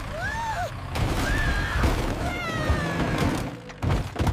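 Animated-cartoon voices giving short wordless cries that rise and fall in pitch, three times, over low rumbling and thuds.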